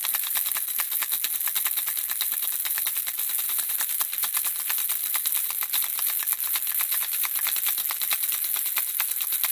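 Handheld baby rattle shaken continuously, the small beads inside making a dense, steady stream of light, high clicks.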